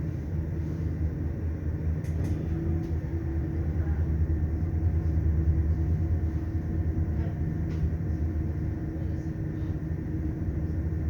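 Train running along the line, heard from on board: a steady low rumble with a faint hum and a few light clicks.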